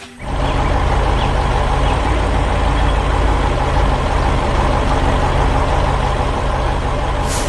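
Tractor engine running steadily, cutting in suddenly just after the start.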